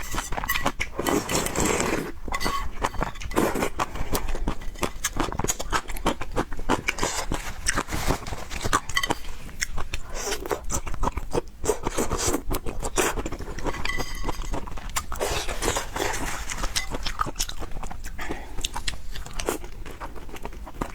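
Close-miked chewing of spicy fried noodles and pork, a steady run of many small wet clicks and crunches.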